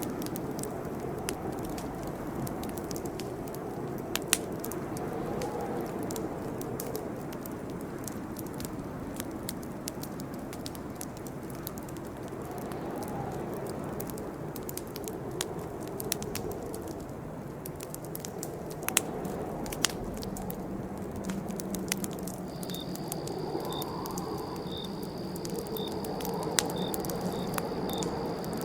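Campfire burning, with the irregular crackle and sharp pops of burning wood over a steady rush of flame. About three-quarters of the way in, a thin, high, steady tone with a row of evenly spaced pips joins it.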